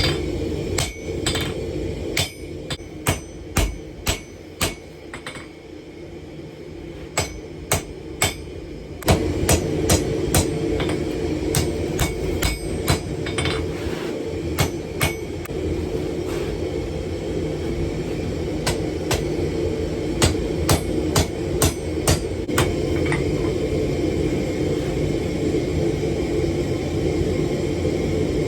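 Hammer blows on hot steel over an anvil: many sharp, ringing strikes in irregular runs with short pauses between them. Underneath is a steady rushing noise that fades for a few seconds about five seconds in, then comes back.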